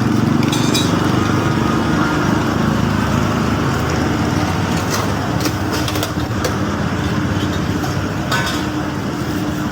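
An engine running steadily, with a few short sharp clicks or knocks over it.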